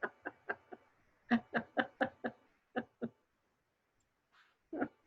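A person laughing in quick runs of short pulses, about five a second, with pauses between the runs.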